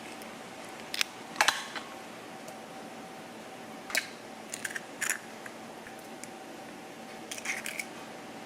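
A handful of light, sharp clicks and knocks of small objects being handled, some in quick pairs, over a steady hum.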